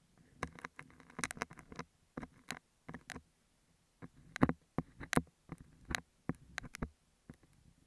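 A metal dental scaler scraping and picking at a beeswax sheet on an earphone microphone, making irregular crisp crackles and clicks with a soft rustle beneath.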